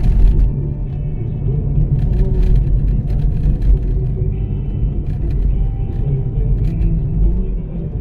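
Rumble of a moving vehicle heard from inside its cabin, with a song playing faintly on the car radio and a few brief knocks.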